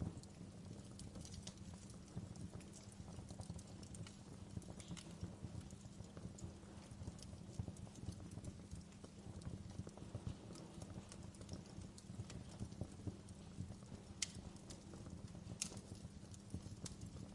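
Wood fire in a fireplace crackling steadily: many small clicks over a low steady rumble, with two louder pops near the end.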